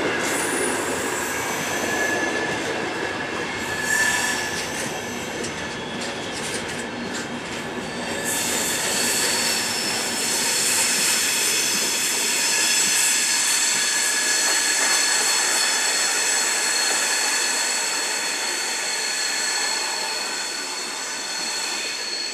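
Departing night express train's carriages rolling slowly over the station tracks, wheels squealing with several high, steady tones that grow louder about eight seconds in, over continuous rail rumble.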